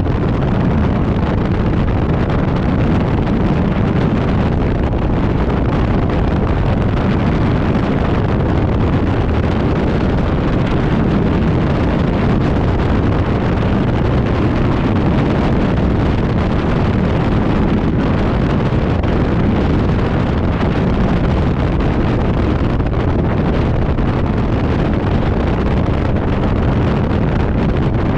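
Steady, heavy wind noise buffeting the microphone of a camera on a Harley-Davidson motorcycle riding through a 40-plus mph windstorm, with the motorcycle's engine and road noise buried underneath.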